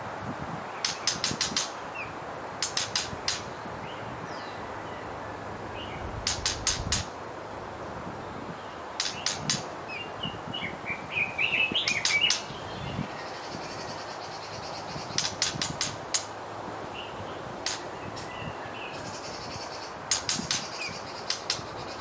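White-rumped shamas calling: short bursts of three to five sharp clicking notes every few seconds, with a run of high, thin chirps about halfway through, over a steady background hiss.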